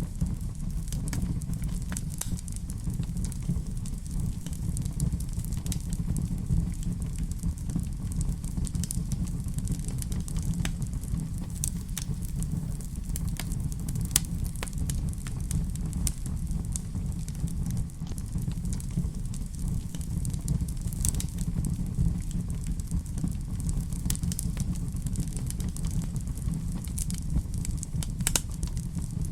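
Wood fire in a fireplace, crackling with irregular sharp pops over a steady low rumble of flame.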